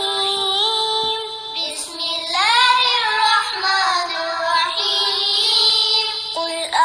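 A high child's voice chanting in melodic Quranic recitation style, with long held notes that glide up and down.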